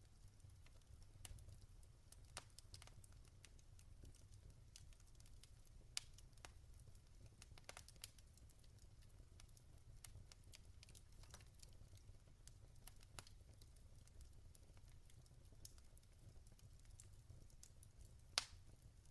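Logs burning in a fireplace, crackling faintly with irregular sharp pops and ticks, one louder pop near the end, over a low steady rumble.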